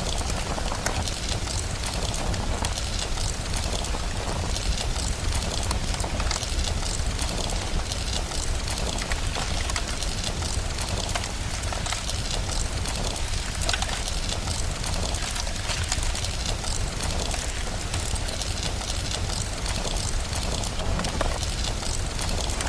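Steady rain mixed with a crackling fire: an even, dense hiss with a low rumble and many small pops and crackles throughout.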